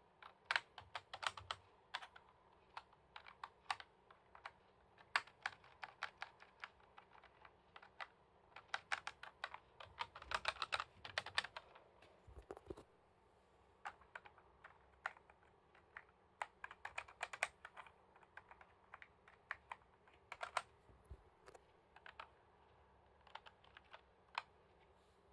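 Typing on a computer keyboard: irregular key clicks, with a quicker flurry about ten seconds in, stopping shortly before the end.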